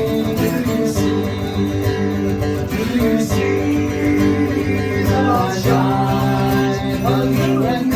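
Live band playing an instrumental passage led by strummed acoustic guitar, in a country style.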